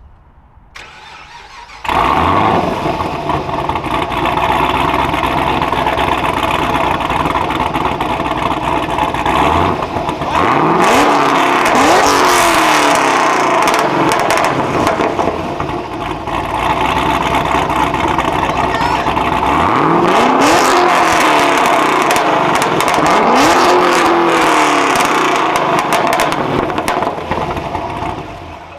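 A V8 muscle car engine starts with a sudden burst about two seconds in and settles into a loud, steady idle. It is then revved several times, each rev rising and falling in pitch.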